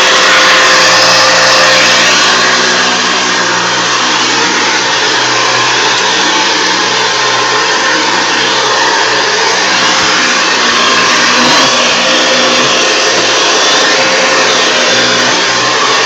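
Hoover Convertible 719 upright vacuum cleaner running steadily, a loud motor whine with the rush of air through its fan.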